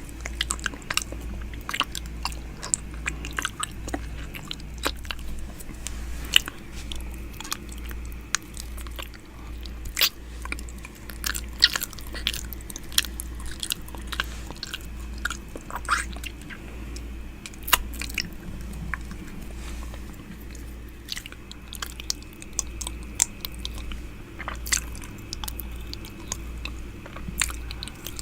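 ASMR 'ear eating' mouth sounds close to the microphone: irregular wet clicks and smacks of lips and tongue, several a second, some sharper than others. A low throb repeats about twice a second underneath.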